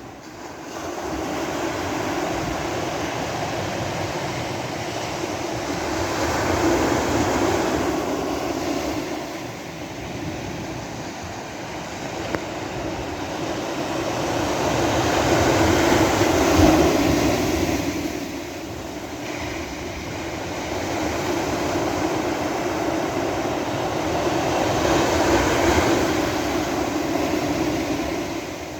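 Sea waves breaking on a beach: a continuous rushing wash of surf that swells and eases, with three big swells about nine seconds apart.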